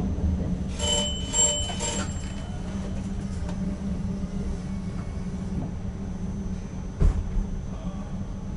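Cab interior running noise of an ICM electric multiple unit: a steady low drone. About a second in, a quick series of short high tones. About seven seconds in, a single sharp knock.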